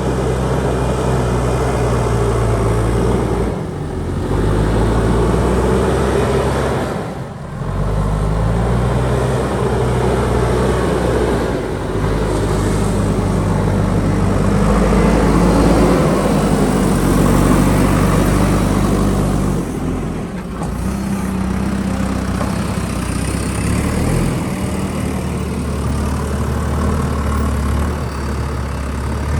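JCB backhoe loader's diesel engine working, its speed stepping up and down under load. The sound dips briefly a few times.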